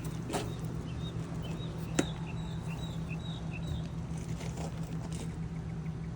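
RV gas water heater being switched on to fire: two sharp clicks over a steady low hum, with faint short high chirps between them.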